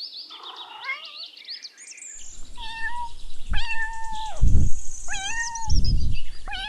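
Domestic cat meowing: after fainter high calls, three or four drawn-out meows follow about a second apart from about two seconds in. Low rumbling noise comes between the meows.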